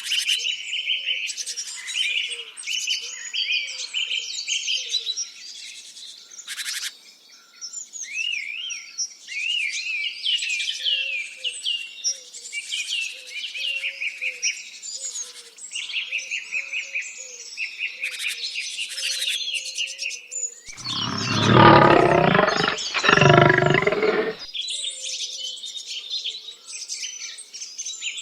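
Several birds chirping and singing, with quick trills and short repeated notes over a faint, evenly repeated low call. About three-quarters of the way through, two loud, long calls from a larger animal, one right after the other, stand out above the birdsong.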